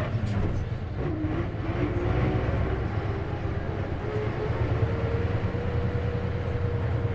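Isuzu KC-LV380N city bus under way, heard from inside: a steady low diesel engine drone with a thin whine over it. The whine shifts pitch about a second in, then holds steady. This whine is the abnormal noise this manual-transmission bus is known to make.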